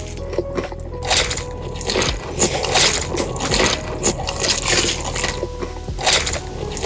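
Close-miked eating: wet chewing, squishing and smacking, in dense irregular crackles, over soft background music.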